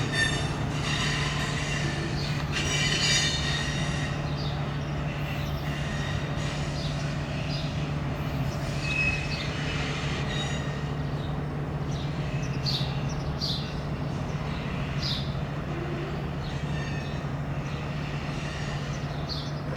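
Freight train of empty centerbeam cars rolling slowly through yard crossovers: the wheels squeal over and over, with clacks over the joints and a steady low hum underneath.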